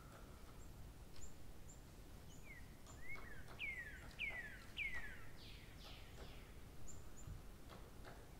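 Birds singing faintly: a run of about five quick downward-sliding whistles in the middle, with short high chirps scattered throughout.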